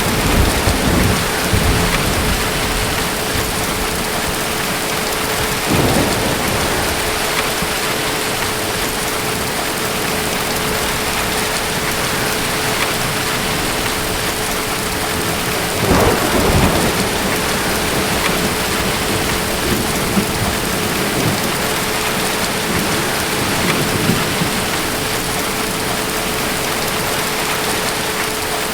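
Steady heavy rain with thunder rumbling a few times: once at the start, again about six seconds in, and loudest about halfway through. A faint steady hum runs under the rain.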